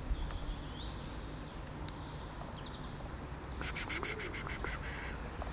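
Wild songbird repeating a short high whistled call that drops slightly in pitch, about once a second. Around the middle comes a rapid dry rattle of about ten ticks a second, lasting just over a second.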